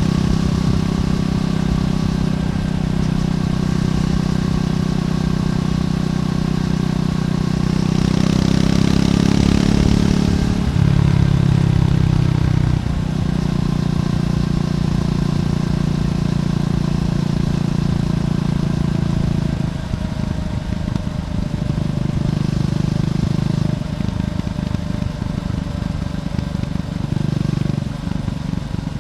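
Triumph Scrambler 400X's single-cylinder engine running through its stock exhaust while riding. It swells under throttle about eight seconds in, steadies, and eases off to a quieter run after about twenty seconds, with short swells of throttle near the end.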